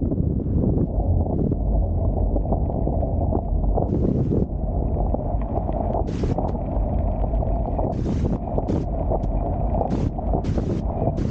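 Wind buffeting the microphone aboard a Hobie Tiger F18 catamaran under sail, over a steady rush of water. From about four seconds in there are several short hissing splashes.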